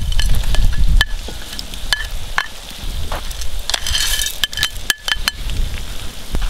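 Meat and onions sizzling in an aluminium kazan over a wood fire while ingredients are scraped off a board into it with a metal spoon. The spoon clinks sharply against the board and the pot rim a dozen or so times, and the sizzle swells into a brief loud hiss about four seconds in as a batch drops into the hot fat.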